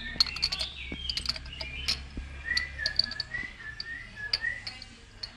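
Small birds chirping, with short sharp chirps and a warbling whistle that wavers around one pitch. A faint low hum sits under the first half.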